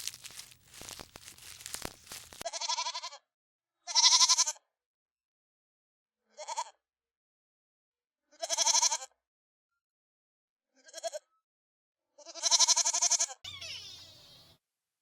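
A series of six short, bleat-like animal calls, each a wavering pitched cry, separated by silent gaps. Before them comes about two seconds of crinkling, crunching noise, and a fainter rustle follows the last call.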